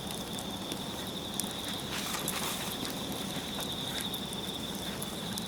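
Crickets trilling steadily in a continuous high chirr, with scattered sharp clicks over it.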